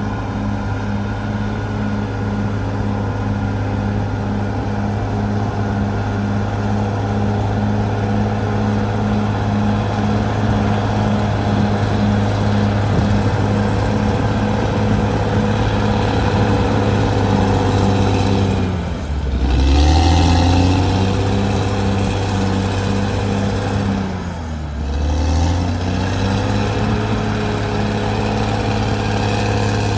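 Caterpillar D6R XL bulldozer's diesel engine running steadily with a faint even pulsing over it. The engine's pitch drops and recovers twice, about two-thirds of the way through and again a few seconds later.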